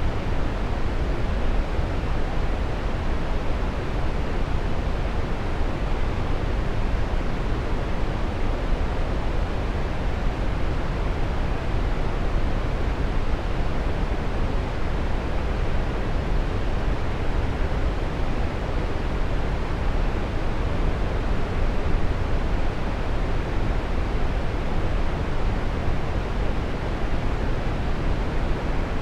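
Waterfall: a steady rush of falling water, even and unbroken, heaviest in the low end.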